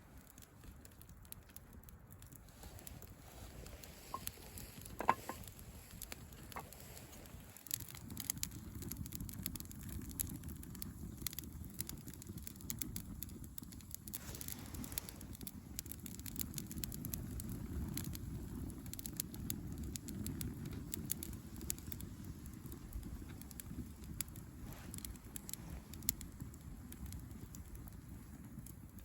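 Campfire crackling with scattered small pops and snaps. A low steady rumble sets in abruptly about seven seconds in.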